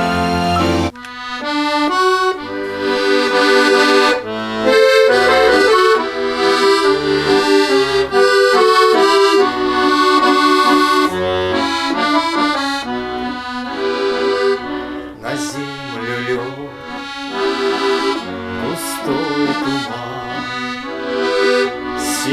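Accordion playing a melody over held chords in a traditional style. It breaks off briefly about a second in, then a new tune starts.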